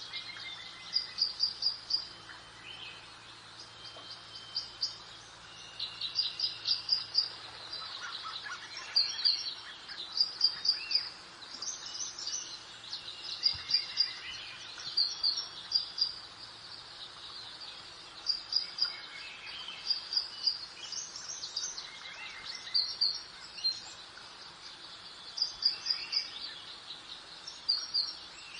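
Songbirds singing: short phrases of three to five quick high notes, repeated every second or two, with softer calls from other birds over a faint steady hiss of breeze.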